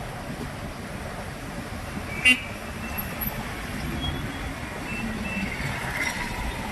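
Steady street traffic noise heard from a bike riding through town, with one short, sharp vehicle horn toot about two seconds in.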